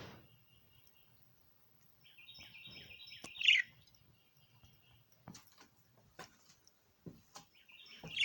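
Caged pet bird chirping: a fast run of chirps about two seconds in that ends in a louder, falling call, then another burst of chirps near the end, with a few faint clicks in between.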